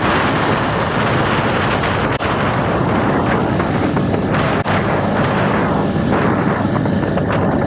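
Wind buffeting the microphone on a moving motorcycle, a loud steady rush, with the bike's engine running faintly underneath.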